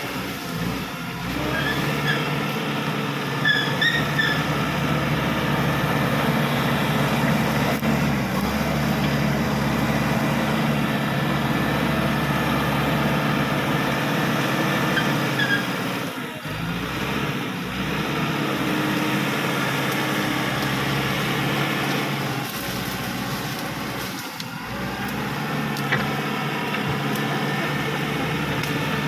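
Caterpillar D5K XL crawler bulldozer's diesel engine running steadily under load, dipping and picking up again about halfway through and again near the end, with a few short high squeaks early on.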